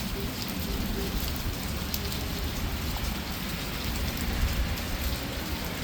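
Heavy rain pouring down, a steady hiss with the patter of drops striking surfaces.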